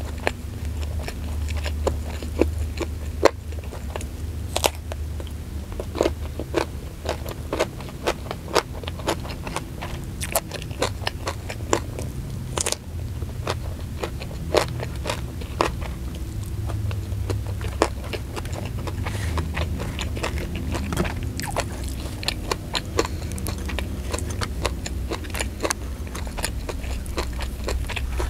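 Close-miked eating: crisp crunching and chewing of a raw small purple eggplant dipped in sambal, many sharp bites scattered throughout, over a steady low hum.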